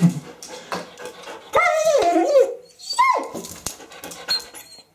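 Eurasier dog giving two drawn-out 'talking' yowls that bend up and down in pitch: a long wavering one about one and a half seconds in, then a shorter falling one about a second later. The dog is demanding to be taken for a walk.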